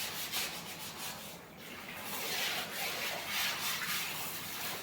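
Buffalo being milked by hand: jets of milk squirting into a pail in a quick, even rhythm of short hissing strokes.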